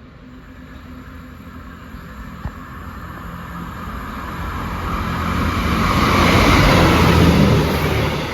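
Northern Class 158 diesel multiple unit passing through the station without stopping. Its diesel engines and wheels on the rails grow steadily louder as it approaches and are loudest about six to seven seconds in. A single sharp click comes about two and a half seconds in.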